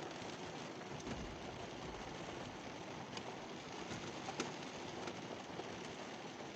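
Steady light rain hissing, with a few separate drops ticking; the sharpest tick comes about four seconds in.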